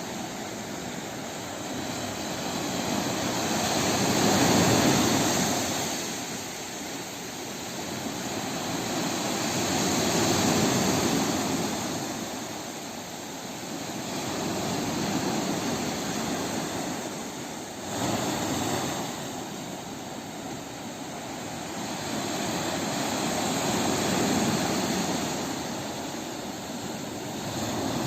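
Sea waves breaking and washing in, the surf rising and falling in slow surges about every five to six seconds.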